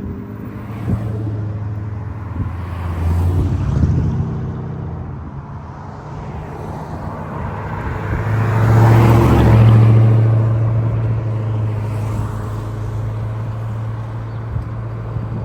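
A vehicle driving on the road: a steady low engine and road drone, swelling louder for a couple of seconds just past the middle.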